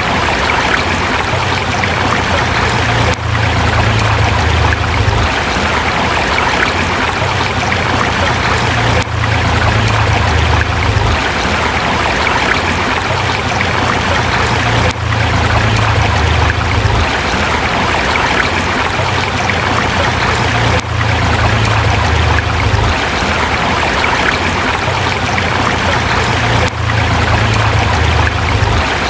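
A forest river flowing over rocks: a continuous rush of water, with a low rumble underneath that swells and fades every few seconds and brief dips in level about every six seconds.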